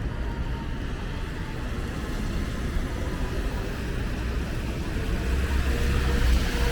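City street traffic noise with a steady low rumble; near the end a passing vehicle's hiss swells louder.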